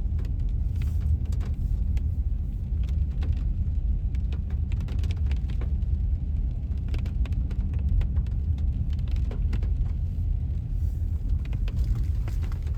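Car driving slowly along a wet road: a steady low rumble of tyres and engine, with many small sharp ticks scattered through it.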